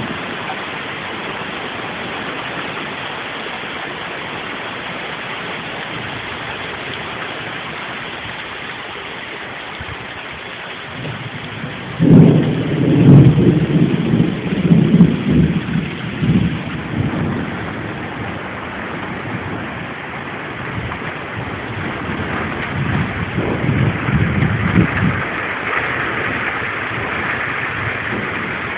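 Heavy rain pouring in a steady hiss. From about twelve seconds in, loud, low rumbling comes and goes in irregular gusts over it.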